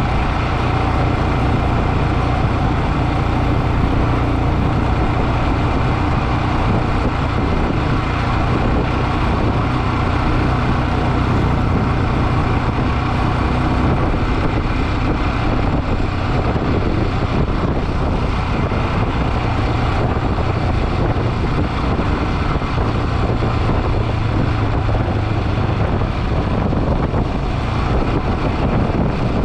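Motorcycle running steadily on the road: a low engine hum under a constant rushing noise, with no change in speed or pitch.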